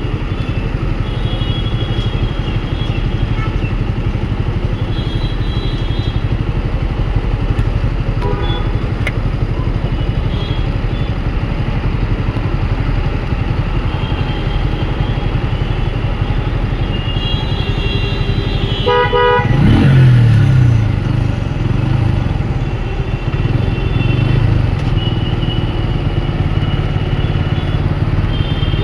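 Motorcycle engine running with steady road noise while riding through city traffic, with vehicle horns honking now and then around it. About two-thirds of the way through, a quick run of honks is followed by the engine revving up as the bike accelerates.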